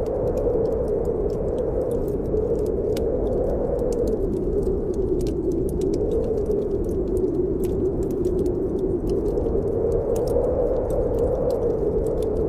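Blizzard wind howling steadily, its pitch slowly rising and falling, over the irregular snapping and crackling of a wood fire in a fireplace.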